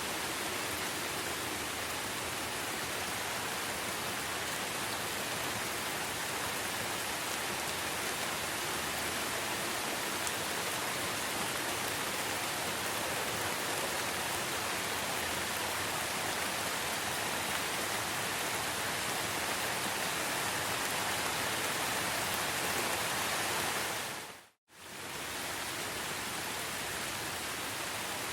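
Steady rain falling in a forest, an even hiss of drops. About three-quarters of the way through it fades out to silence for a moment and quickly fades back in.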